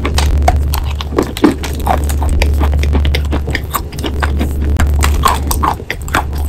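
Chalk crunching between the teeth as a mouthful of white chalk block is chewed: rapid, irregular crunchy clicks, over a steady low hum.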